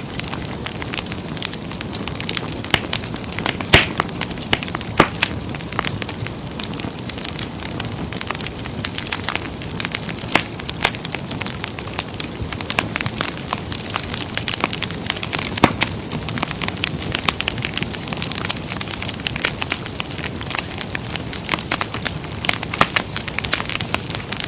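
Wood fire crackling in a fireplace: a steady hiss with frequent sharp pops and snaps, a few louder pops about four and five seconds in and again past the middle.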